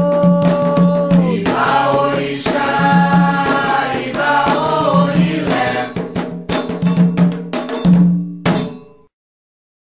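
Candomblé chant to Xangô: voices singing a sacred song with drums and percussion. The singing and percussion stop about nine seconds in, going to silence.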